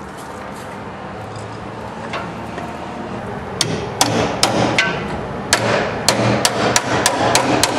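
Hammer blows on sheet metal, as in shaping a patch panel: a few spaced strikes about halfway through, then a steady run of about three sharp blows a second.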